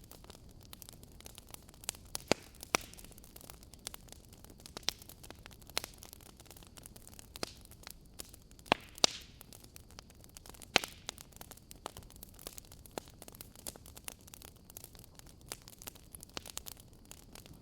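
Wood fire crackling, with irregular sharp pops over a faint steady hiss; several loud snaps come around the middle.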